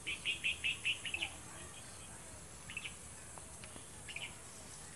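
A small bird calling: a quick run of short, high chirps in the first second and a half, then two brief runs of chirps later.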